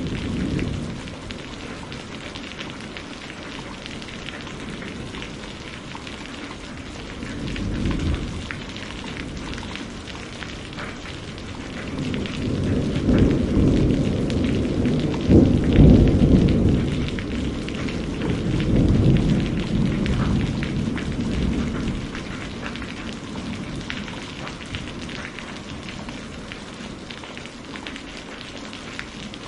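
Steady rain falling, with rolling thunder: a brief rumble about eight seconds in, then a long swelling rumble peaking around the middle and fading out by about two-thirds of the way through.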